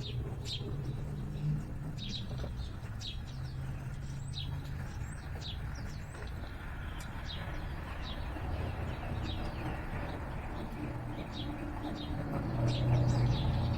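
Small songbirds chirping: many short, high, downward-sliding chirps, scattered irregularly, over a low steady rumble.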